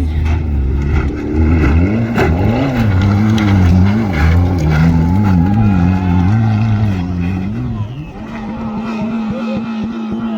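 Rally car engine revving up and down repeatedly as the car accelerates, shifts and brakes through muddy corners. About eight seconds in, it settles to a steady pitch.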